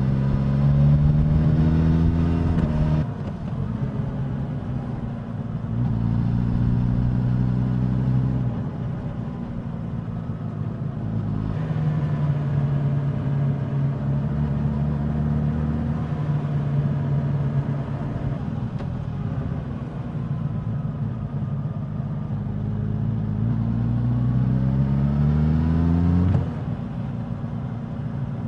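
Suzuki GSX-S1000's inline-four engine and exhaust on the move: it pulls with rising pitch at the start and again near the end, each pull cut off by a sudden drop as the throttle closes, with steadier running between.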